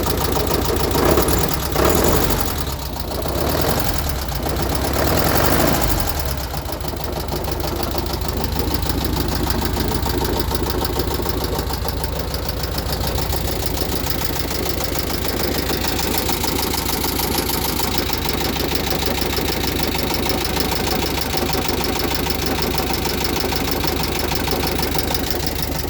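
Rebuilt VW Beetle 36 hp air-cooled flat-four engine revved up briefly a few times, then idling steadily, with a rapid, even knocking running through it. The owner asks whether it is rod knock and hopes instead for a loose oil cooler rattling inside the fan shroud.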